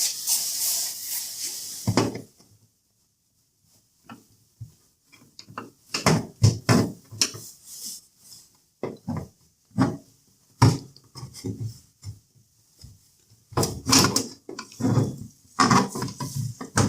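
Sharp plastic clicks, knocks and scrapes at irregular intervals as the washing machine's front kickplate is pried down off its plastic clips. It opens with a steady hiss that cuts off after about two seconds.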